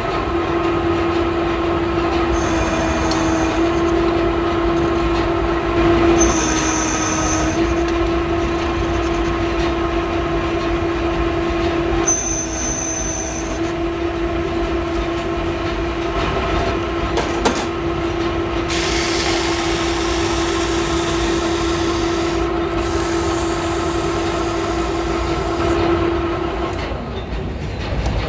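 Factory machinery running with a steady whine that holds one pitch, with brief higher hissing bursts now and then; the whine stops shortly before the end.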